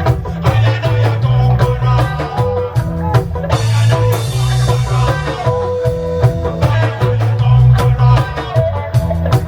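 Reggae band playing lovers rock, with a heavy bass line, a drum kit and guitar. There is a cymbal wash about three and a half seconds in.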